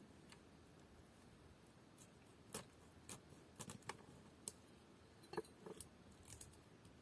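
A scattered series of short, sharp clicks and snips at irregular intervals, starting about two and a half seconds in and over a quiet background.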